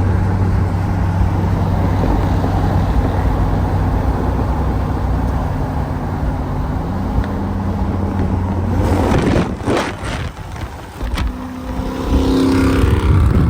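Car engine and exhaust under way, holding a steady drone, then rising in pitch as the car accelerates about nine seconds in and again near the end.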